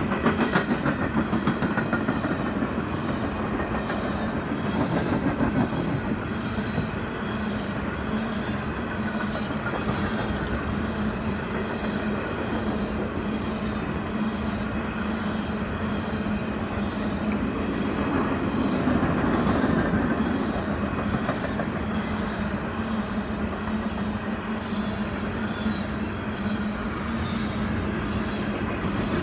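Canadian Pacific freight train cars rolling past on the rails, a steady continuous passage with wheel-on-rail clatter.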